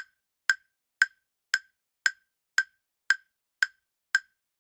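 Countdown timer sound effect: a dry, clock-like tick repeating evenly about twice a second, nine ticks in all.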